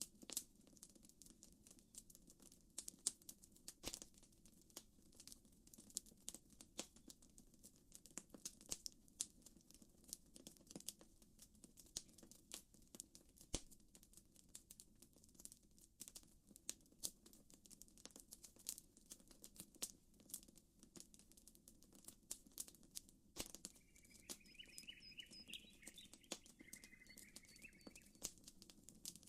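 A campfire crackling, with irregular sharp pops and snaps of burning wood. Near the end, a bird chirps briefly in a short series of high notes.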